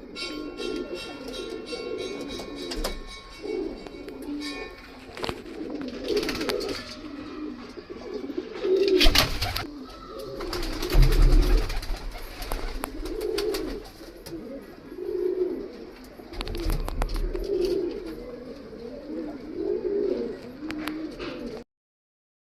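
Domestic pigeons cooing over and over in low, rolling calls, with scattered clicks and knocks and a louder thump about nine and eleven seconds in. The sound cuts off abruptly near the end.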